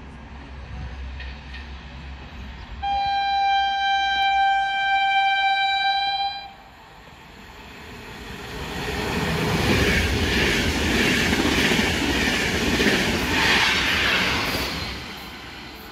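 Intercity train sounding one long single-note horn blast of about three and a half seconds as it approaches. It then passes the platform at speed, its wheels and cars rushing and clattering over the rails, swelling and fading as the train goes by.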